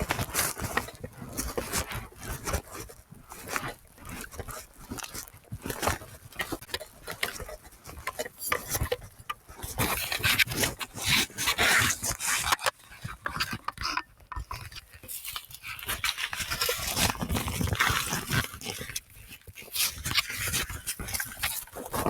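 Footsteps crunching and rustling through forest brush and leaf litter on a steep climb, with heavy panting breaths.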